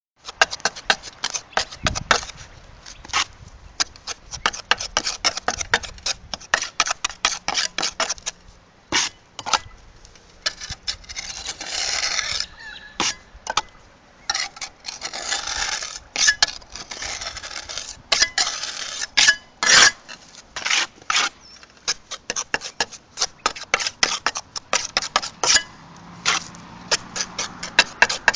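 Steel pointing trowel clicking, tapping and scraping against roof ridge tiles as flexible pointing compound is pressed in and smoothed along the ridge capping. Many sharp, irregular clicks, with longer scraping strokes around the middle.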